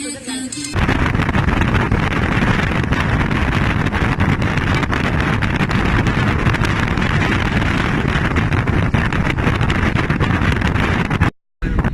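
Wind buffeting the microphone: a loud, steady rushing noise with crackles. It starts abruptly about a second in as the music stops, and cuts out briefly near the end.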